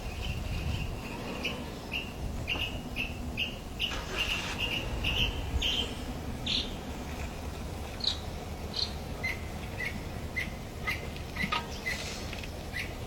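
A bird calling in short repeated chirps, about two a second, over a low steady rumble. Partway through, the chirps switch to a lower-pitched series.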